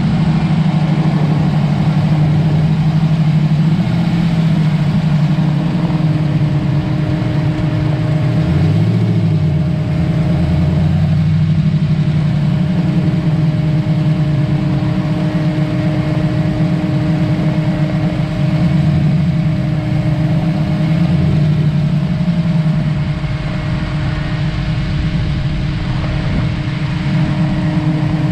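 A car engine running steadily at low revs as the car rolls slowly, with a steady low hum and road and wind noise; the pitch shifts slightly about a third of the way through.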